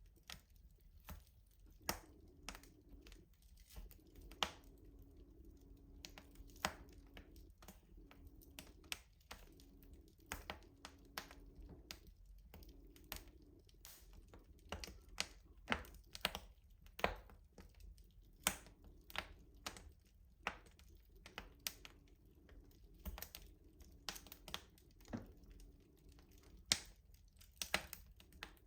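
Wood fire crackling in a traditional rustic stove: irregular sharp pops and snaps, a few louder than the rest.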